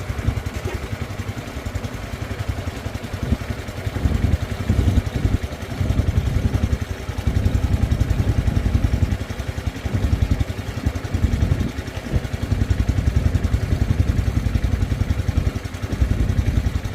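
Small engine running with a steady low rumble that swells and eases every few seconds.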